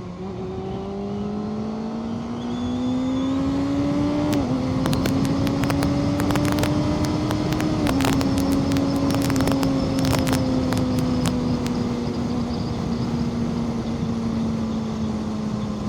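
Motorcycle engine pulling under acceleration through two upshifts: the pitch climbs, drops at a gear change about four seconds in, climbs again, drops at a second shift about eight seconds in, then settles and eases slowly lower as the bike cruises. Wind buffets the microphone in the middle of the stretch.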